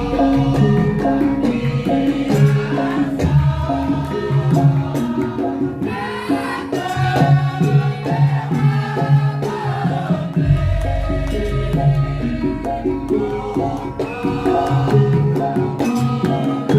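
Javanese lengger gending from Wonosobo: gamelan music with struck pitched percussion and drums, and singing over it.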